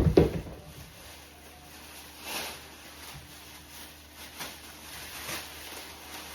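A loud low thump right at the start, then a few soft, scattered rustles.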